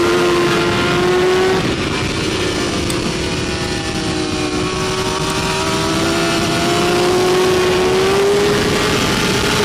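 BMW S1000RR superbike's inline-four engine running at high revs on track, heard from on board over wind rush. The throttle eases about a second and a half in, then the engine pitch climbs steadily through the second half as the bike accelerates.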